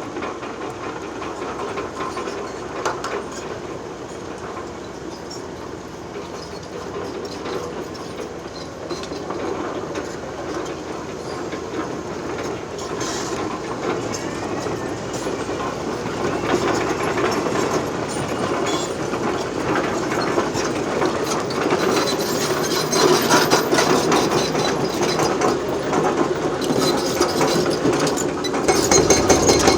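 Heavy excavator demolishing a concrete bridge: a continuous clatter and crackle of breaking concrete and rattling debris over the machine's diesel engine. It grows louder through the second half, and a deeper rumble joins near the end.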